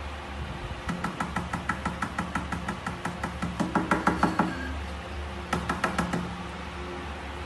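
Rapid light tapping on a pane of glass, about five or six taps a second with a faint ring, starting about a second in and running for a few seconds, then a shorter run near the end, over a low steady hum.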